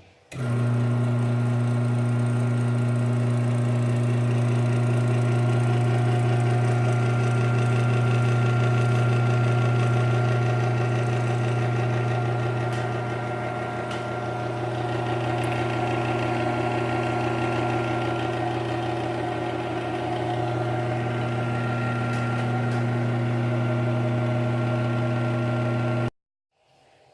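Failed garage door opener's electric motor giving a steady low hum for about 26 seconds without lifting the door, then cutting off suddenly; the opener has failed and cannot raise the door.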